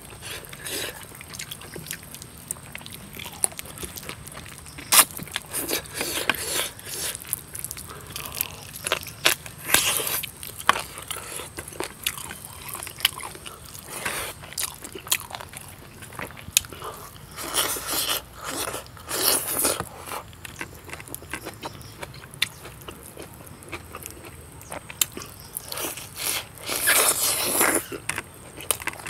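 Close-up eating sounds of a man chewing mouthfuls of pork and rice: irregular mouth clicks and smacks, with louder bursts every few seconds, the loudest near the end.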